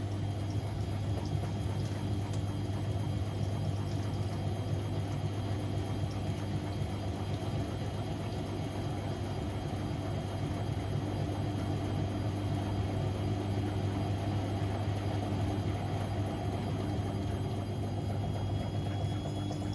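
Siemens Extraklasse XLs 140 A front-loading washing machine running through a Cottons 60°C stains programme, a steady low hum with no breaks.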